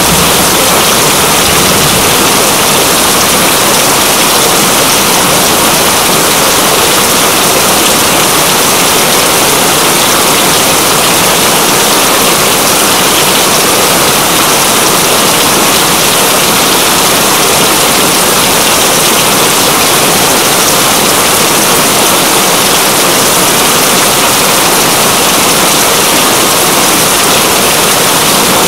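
Heavy rain falling steadily: a loud, even hiss with no breaks or changes.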